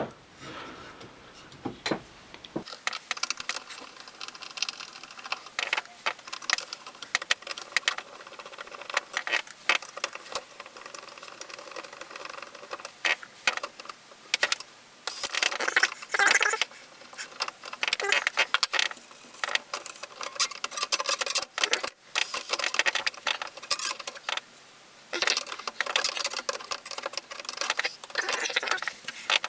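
Small tools and parts of a VHS video recorder's tape mechanism being handled: irregular clicks, scrapes and light rattles, in denser flurries at times.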